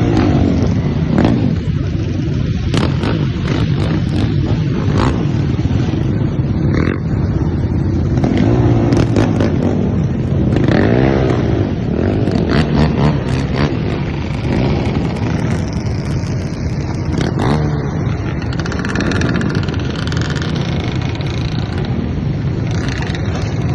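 Engines of a large group of dirt bikes and ATVs running and revving as they ride past. The engines rise and fall in pitch in a cluster of revs around the middle.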